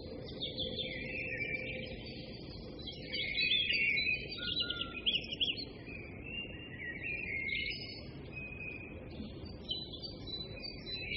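Small birds chirping and twittering, with quick rising and falling notes, over a steady low hiss.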